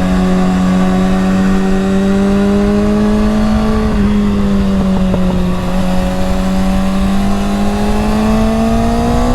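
Motorcycle engine running under steady throttle at speed, its note holding nearly level with a slight dip about four seconds in, then rising in pitch near the end as the bike accelerates, over wind rush.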